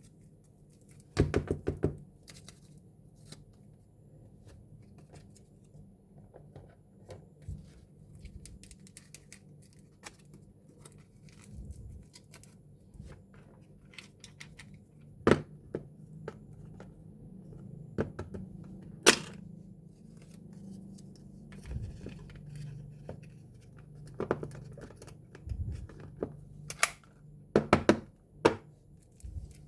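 Small plastic toy pieces being handled and set down: scattered sharp clicks and knocks, with a quick cluster about a second in and several more near the end, over a faint steady hum.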